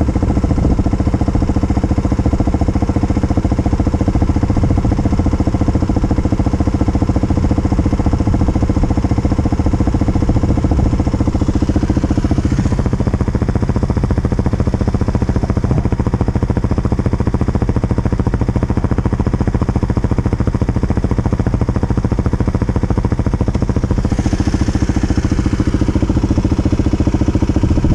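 Kawasaki KLX250's single-cylinder four-stroke engine running at low speed, its note shifting about halfway through and again near the end.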